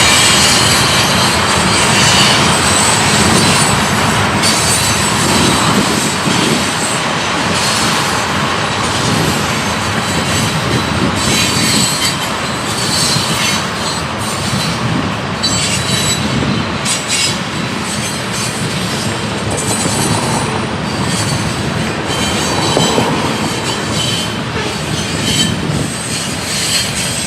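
Railcars of a passing train rolling by, with steady loud wheel and rail noise, clatter, and repeated brief high wheel squeals throughout.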